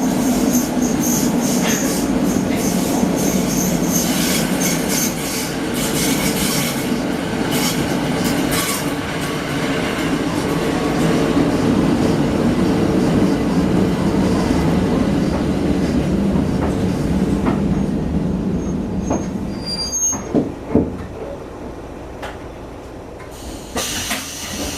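Train rolling on the rails, heard from inside a railcar: a steady rumble with high wheel squeal that fades away after about 18 seconds. A few sharp clicks follow, then a short burst of hiss near the end.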